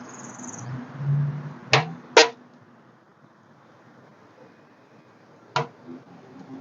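Three sharp clicks, two close together about two seconds in and one more near the end, over a faint steady hiss.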